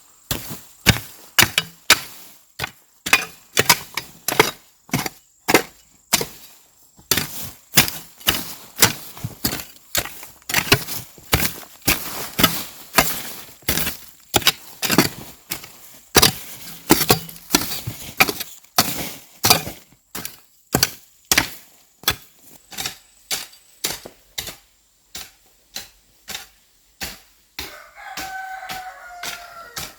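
Hand tool chopping: sharp strikes repeated at about two a second, spaced more widely near the end. A short, falling call cuts in a couple of seconds before the end.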